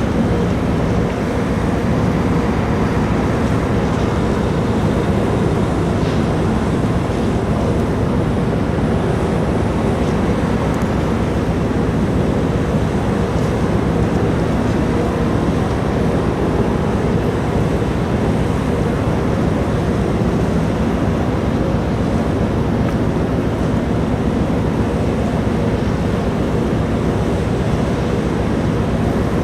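Steady, loud drone of a large car ferry's engines and machinery, with a low hum under a constant rush of wind and water.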